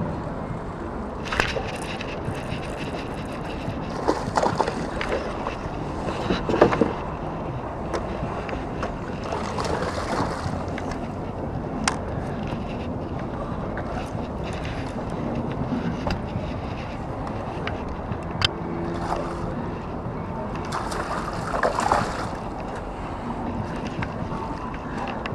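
Wind buffeting the microphone over water sloshing around a kayak, with scattered knocks and several short splashy bursts.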